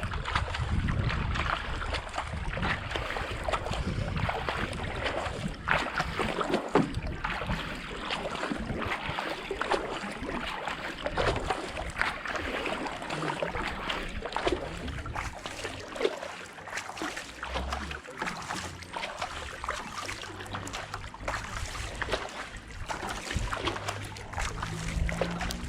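Kayak paddle blades dipping and splashing in the canal water, stroke after stroke at racing pace, with the hull moving through the water. Wind buffets the microphone in the first few seconds.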